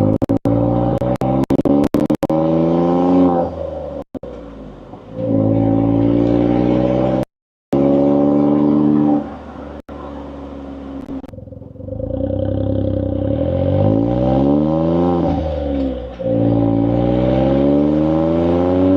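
Suzuki Jimny JB64's small three-cylinder turbo engine running through an HKS Legal aftermarket muffler under acceleration: the exhaust note rises in pitch under load and drops sharply at each gear change, several times. The sound is heard from a microphone outside the car and breaks up with brief crackles and a short total dropout about seven seconds in.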